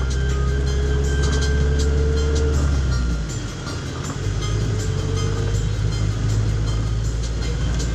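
A vehicle engine running, its pitch rising as it speeds up. About three seconds in the sound drops off briefly, then it rises again.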